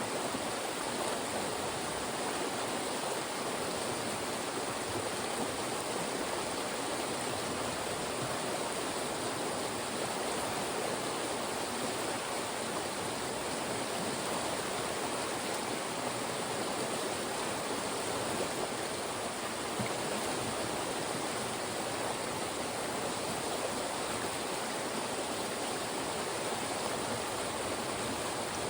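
Fast-moving mountain stream rushing steadily over and between rocks, a continuous even rush of water with no change.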